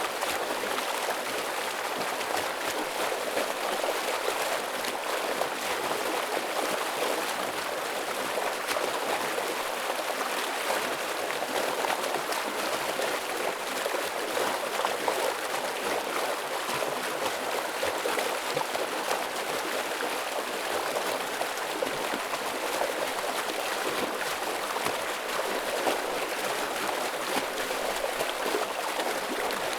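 Heavy flowing stream water rushing and splashing steadily over rocks.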